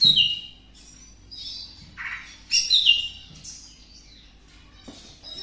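Greater green leafbird calling: two loud bursts of quick chirps stepping down in pitch, one at the start and one about two and a half seconds in.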